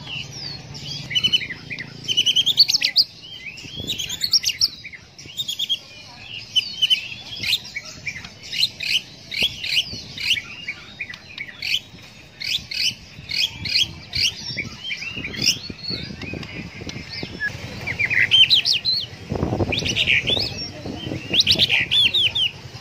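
White-rumped shama singing a rapid, varied song of short whistled chirps, sweeps and trills with hardly a pause. A brief rustling noise comes in about nineteen seconds in.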